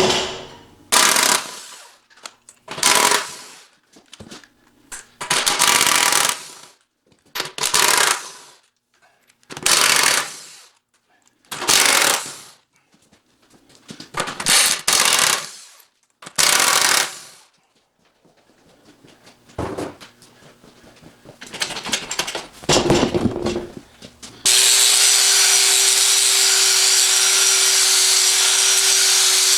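Short bursts of a pneumatic impact wrench, about one every two seconds, hammering at the bolts that hold a cast-iron wheel centre to its rim. Near the end a power tool starts up and runs steadily.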